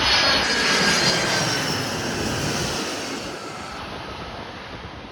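Jet engines of an arriving UPS Boeing 767-300ER freighter passing, a loud rushing roar with a faint whine that drops slightly in pitch, fading steadily as the plane moves away.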